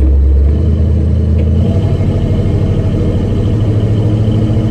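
1974 Ford F100 pickup's 351 Windsor V8 running as the truck is driven. The low engine note steps up in pitch about half a second in and again near two seconds, then holds steady. The transmission has just had its band adjusted and is pulling through its gears.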